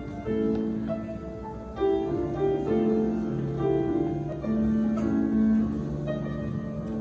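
Piano playing a slow melody over held chords, with notes changing about every half second to a second.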